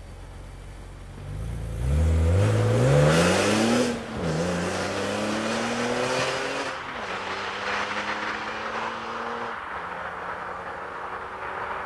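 BMW M3 E46's straight-six idling, then revving hard under acceleration about one and a half seconds in. The pitch climbs, drops sharply at an upshift about four seconds in, and climbs again, with further upshifts near seven and near nine and a half seconds, while the sound grows fainter.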